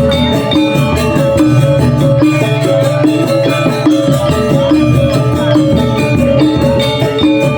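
Balinese gamelan gong ensemble playing a tabuh alus, a refined instrumental piece. Struck bronze metallophones ring out short notes in quick, repeating patterns over a sustained low tone.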